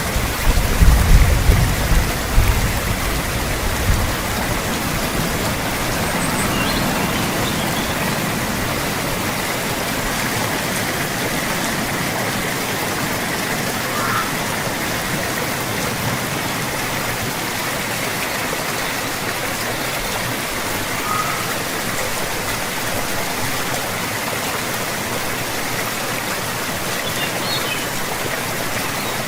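Steady rain, an even hiss of falling water. A low rumble, like thunder, dies away over the first few seconds.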